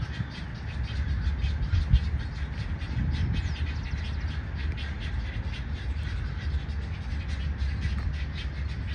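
Large wading birds calling harshly, a rapid, irregular series of short rasping calls and clacks, over a low rumble.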